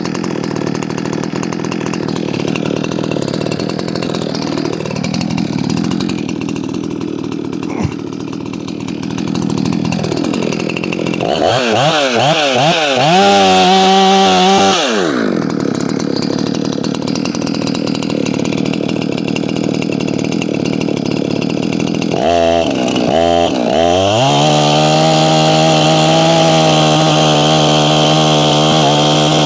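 Ported Efco 165 two-stroke chainsaw running. It runs low and uneven for the first ten seconds or so, then is revved in quick blips for a few seconds. In the last third it is pulled up to full throttle and held at a steady high pitch, letting off right at the end.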